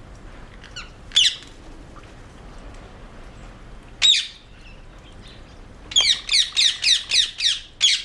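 Rose-ringed parakeets giving harsh squawking calls: one about a second in, another at four seconds, then a rapid run of about eight calls, roughly four a second, over the last two seconds.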